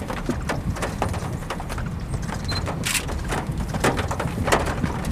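Storm wind rumbling steadily near a tornado, with scattered sharp knocks of hard objects striking through it.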